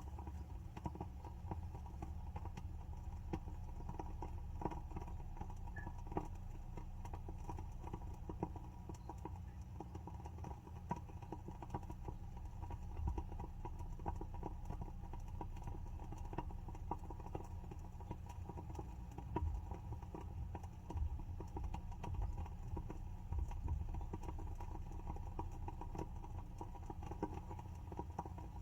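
WoodWick candle's wooden wick crackling as it burns: a continuous run of small irregular pops and ticks over a low steady hum.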